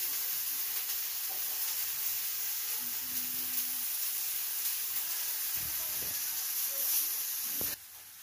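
Thin potato slices shallow-frying in a little mustard oil on a tawa griddle over a medium flame: a steady sizzle that cuts off abruptly near the end.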